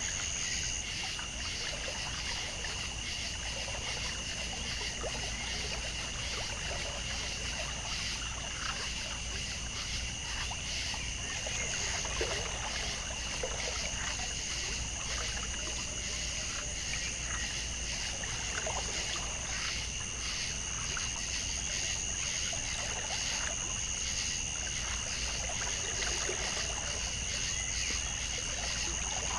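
Water trickling and lapping, under a steady high-pitched whine held at two pitches throughout.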